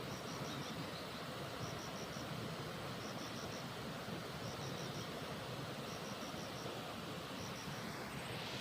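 Steady outdoor rushing noise with a faint high chirping call of four quick notes, repeated roughly once a second.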